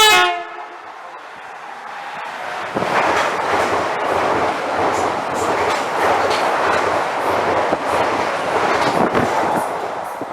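A short, loud horn note, then a train passing at speed: its rushing noise builds over a couple of seconds and holds, with wheels clicking over the rail joints, and eases a little near the end.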